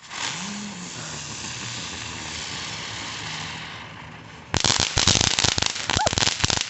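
A lit consumer firework hissing steadily as it throws sparks, then breaking into rapid, dense crackling about four and a half seconds in.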